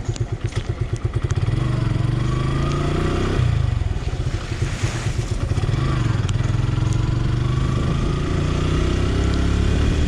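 Motorcycle engine pulling away: a slow chugging at first, then the engine note rising, dropping at a gear change about three seconds in, and rising again.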